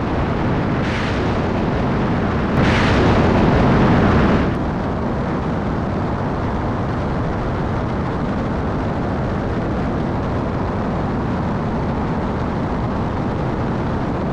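Jet aircraft engines giving a steady loud roar, which swells louder for about two seconds near the start and then settles back to an even rumble.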